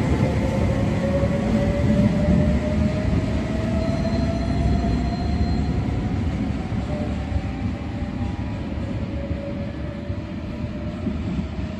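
Electric double-deck commuter train pulling out and accelerating away through an underground station. Its motor whine rises slowly in pitch over a deep rumble of wheels on track, and the sound fades as the train recedes.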